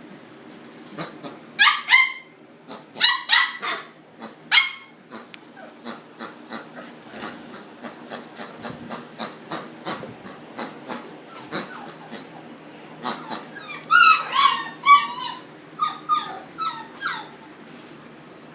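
A boxer dog and a wild boar fighting: two bouts of sharp, pitched cries and barks, about two seconds in and again from about thirteen to seventeen seconds, with a run of short scuffling knocks in between.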